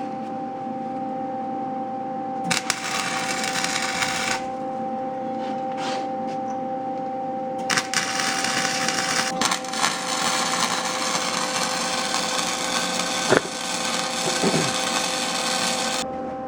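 Welder arc crackling and sizzling as the exhaust pipe is welded: a short run of about two seconds, then a longer run of about eight seconds. A steady electrical hum sits underneath.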